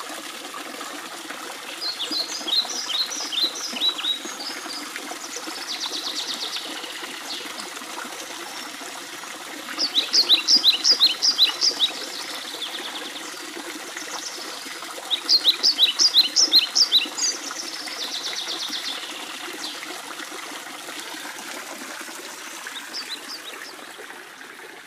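A songbird singing three phrases of quick high chirps, each ending in a short buzzy trill, over a steady trickle of running water.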